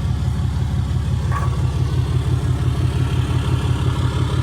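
Truck engine idling steadily, with a low, even pulsing throb.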